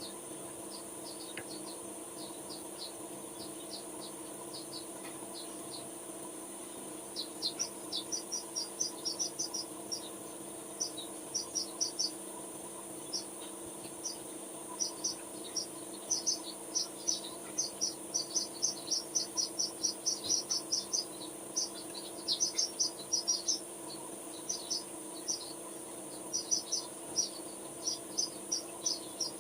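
Short, high-pitched chirps repeating in quick irregular bursts, sparse at first and busier from about seven seconds in, over a steady low hum.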